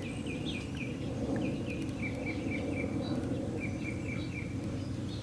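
A small bird chirping: runs of short, quick, falling chirps, several a second, over steady low background noise.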